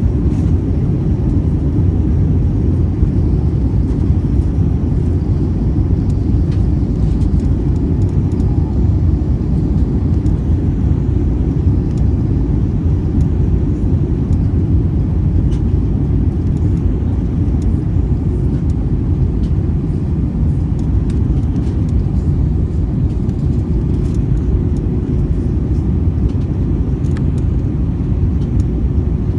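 Airbus A320 cabin noise during descent: a steady low rumble of engines and airflow heard from a window seat, unchanging throughout.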